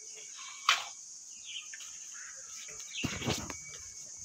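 Birds chirping faintly outdoors, with one sharp knock about a second in and a short rustle of handling noise near the end.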